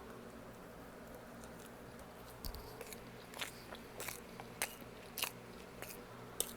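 Close-up mouth sounds of a person eating: wet chewing smacks and clicks, starting about two and a half seconds in and coming roughly every half second, over a steady low hum.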